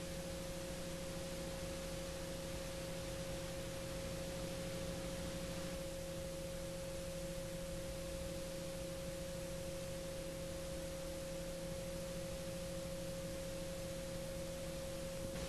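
Faint, steady drone of Garrett TPE331 turboprop engines running at high RPM with prop sync on: an even mid-pitched tone over a lower hum, holding steady without change.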